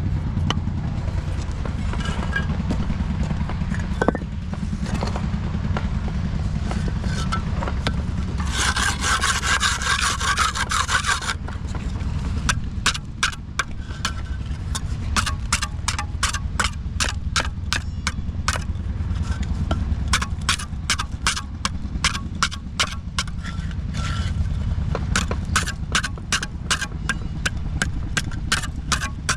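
Construction-site work noise: a steady low machine rumble, a harsh burst of noise lasting about three seconds around nine seconds in, then sharp knocks repeating about twice a second.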